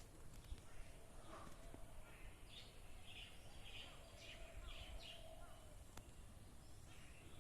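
Faint birdsong: a quick series of about six high chirps around the middle, over a low outdoor rumble.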